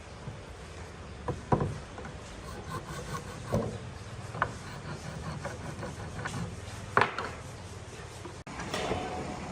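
Wooden boards being handled, with rubbing and scraping of wood on wood and several scattered knocks, the sharpest about seven seconds in.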